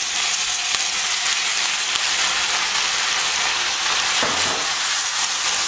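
Bok choy, fennel and green onions sizzling steadily in a hot frying pan of olive oil as white cooking wine is poured in.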